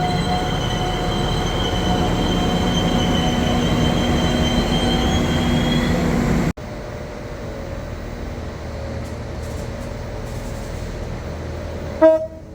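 A train at the station running steadily, with a rumble under several steady high-pitched whining tones. About six and a half seconds in it cuts off abruptly to a quieter steady rumble, and near the end a train horn gives one short, loud toot.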